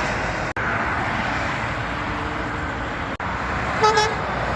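Steady road traffic noise from passing vehicles. It cuts out briefly twice, and about four seconds in a short, loud horn-like tone sounds.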